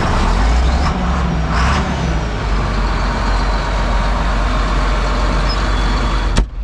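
John Deere 4555 tractor's six-cylinder turbo diesel running just after being started, a steady low rumble. A sharp click comes near the end.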